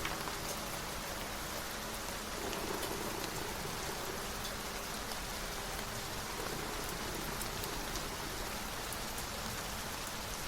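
Steady rain falling, with faint scattered drop ticks.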